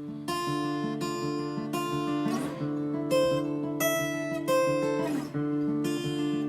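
Acoustic guitar strumming chords in a steady rhythm: the instrumental opening of a song.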